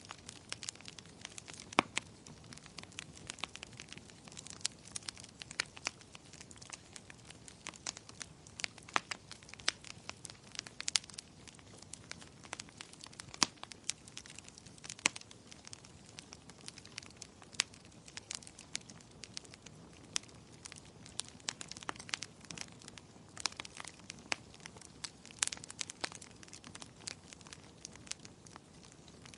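Wood fire in a fireplace crackling, with frequent sharp pops and snaps over a soft steady hiss of flames.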